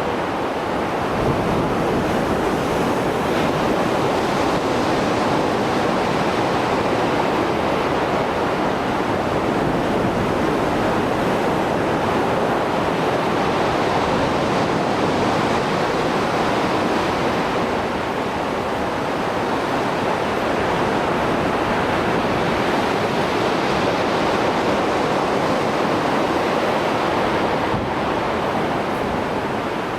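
Heavy surf of rough sea breaking and washing ashore in a continuous roar that swells and eases slowly, with no lulls.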